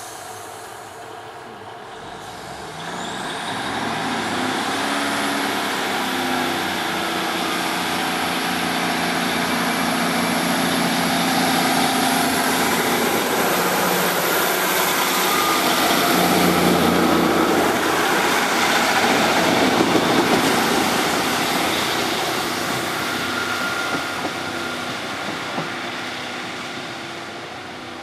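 Diesel locomotive and train running past. The engine grows louder from a few seconds in, is loudest past the middle, then fades away.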